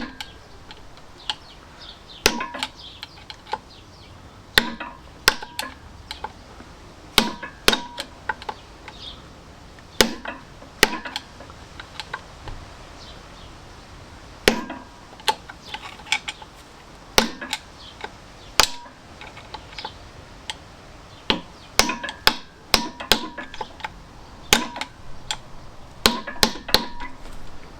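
Hammer blows on metal engine parts, sharp strikes coming irregularly and often in quick runs of two to four, each with a brief metallic ring.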